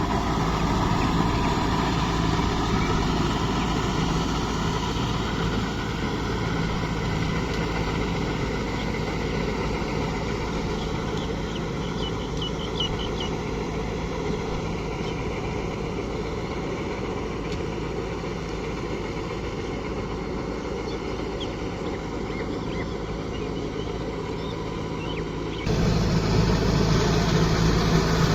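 Kubota MU5502 tractor's diesel engine running steadily. It becomes suddenly louder near the end.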